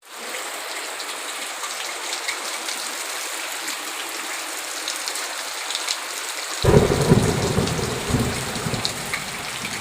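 Steady heavy rain hissing, with a sudden clap of thunder about two-thirds of the way in that rumbles low and dies away over a couple of seconds.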